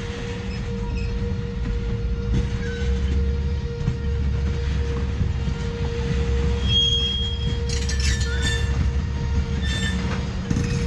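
Tank cars of a slow freight train rolling past: a steady low rumble of wheels on rail with a held tone, a short high wheel squeal about two-thirds of the way through, and a few clicks and clanks near the end.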